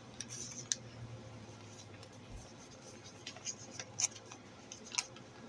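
Faint scattered clicks and light rustling from coins and their packaging being handled, over a low steady hum that fades out about halfway through.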